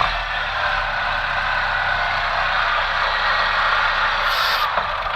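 Chevrolet Tornado's 1.8-litre four-cylinder engine running while throttle body cleaner is sprayed into the intake: a steady hissing rush over the engine's low hum, with a short higher hiss about four seconds in.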